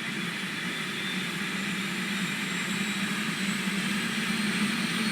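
Helicopter engine and rotor running, a steady drone whose hum climbs slightly in pitch and grows gradually louder, as the helicopter runs up for takeoff.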